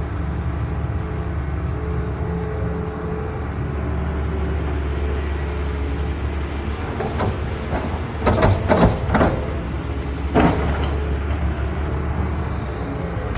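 Heavy diesel engine of a CAT excavator running steadily under a low drone. A cluster of loud clanks comes about 8 to 9 seconds in, and one more about a second later.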